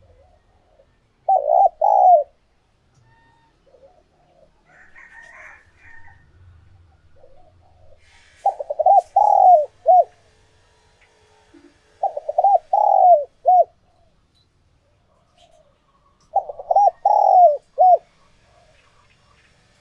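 Spotted dove cooing: four phrases of three or four short coos each, several seconds apart. This is the song of a tame cock dove, used as a decoy call to stir up wild doves.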